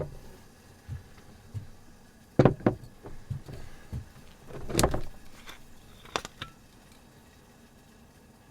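A sharp click, then a scattered series of light knocks and clunks over several seconds, the loudest about two and a half and five seconds in, like gear being handled and moved about.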